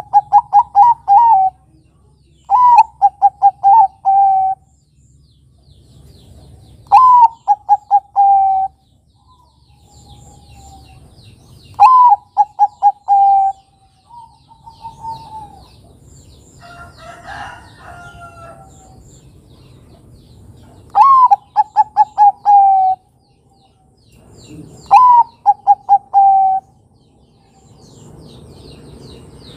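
Zebra dove (perkutut, Bangkok type) cooing: six phrases a few seconds apart, each a rising opening note followed by a quick run of short, slightly falling coos. A fainter, different bird call comes in around the middle, over a low hum.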